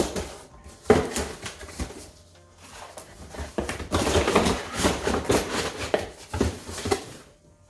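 Rustling and crackling of packaging, with irregular knocks and clatters, as a boxed electric kettle is unpacked and handled.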